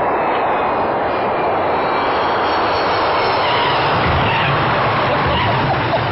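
Jet airliner engines running loud and steady. A deeper rumble comes in about four seconds in.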